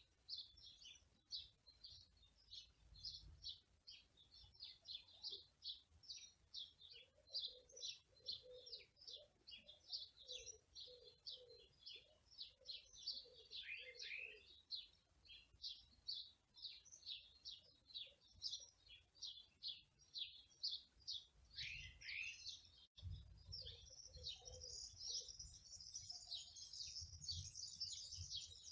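Small birds chirping busily in quick, high, overlapping notes. A dove's low cooing repeats in the middle and again near the end.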